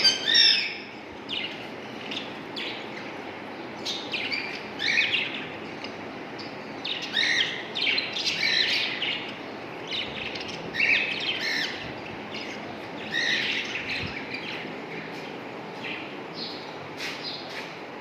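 Pet bird chirping in irregular bursts of short, high chirps every second or two, over a steady low hiss.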